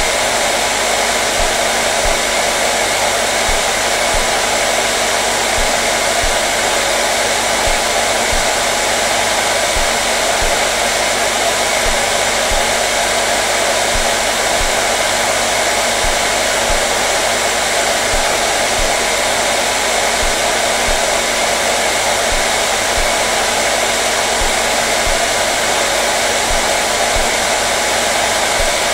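Hair dryer running steadily: a constant, even whooshing hiss with a faint hum, unchanging throughout.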